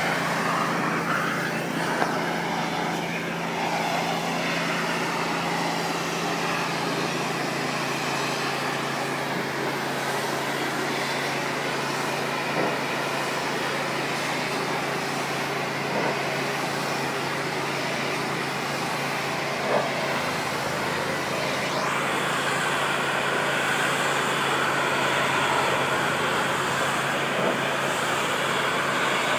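Pressure washer's engine running steadily under the hiss of the water spray, which changes about 22 seconds in.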